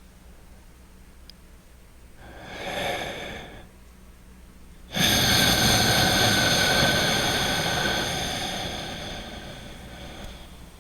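A man breathing loudly through his nose in slow, deliberate relaxation breaths: a short breath about two seconds in, then a much louder long breath that starts suddenly about five seconds in and fades away over several seconds.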